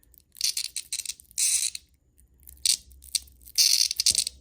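A cicada held in the hand buzzing loudly in short, harsh, rapidly pulsing bursts, about four of them with gaps in between, the last near the end the longest.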